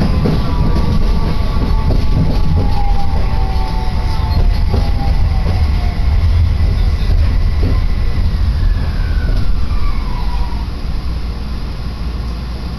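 Fukui Railway Fukubu Line train running, heard from inside the car: a steady low rumble with a few knocks, and a faint whine that slowly falls in pitch.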